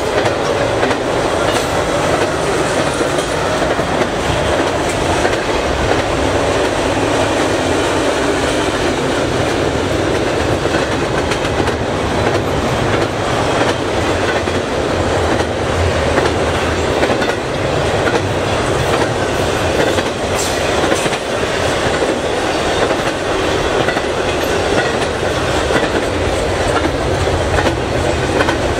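Double-stack intermodal container cars of a freight train rolling past: a steady, loud rumble of steel wheels on rail with scattered clicks.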